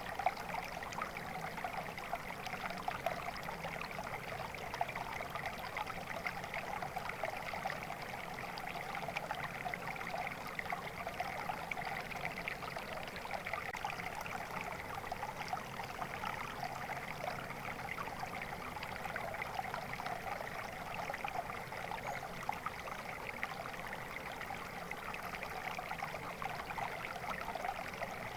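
Water flowing steadily in a stream, a continuous babbling splash with no break.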